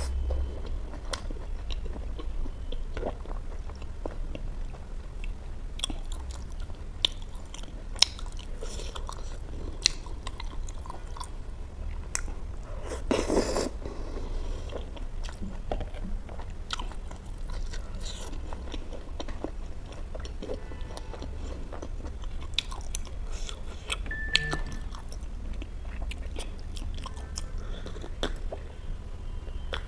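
Close-miked chewing of a mouthful of butter chicken and naan, with many small wet mouth clicks and smacks, and one longer, louder wet smack about halfway through. A steady low hum runs underneath.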